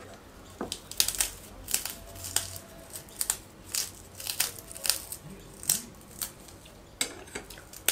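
Hot Cheetos being crushed by hand on a plastic bag: crunching snack pieces and crinkling plastic, in short sharp crackles about twice a second.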